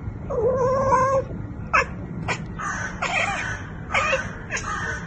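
A cat yowling over and over: one long wavering call about half a second in, then a run of shorter calls.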